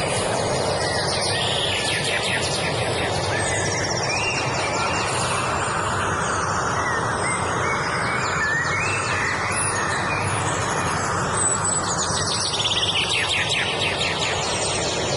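Several songbirds singing, with repeated short chirps and rapid high trills, over a steady rushing background noise that swells and fades in the middle.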